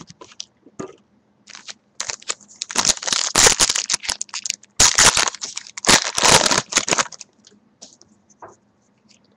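A baseball card pack's wrapper being torn open and crinkled, a loud crackling rustle for about five seconds, with a few light clicks before it.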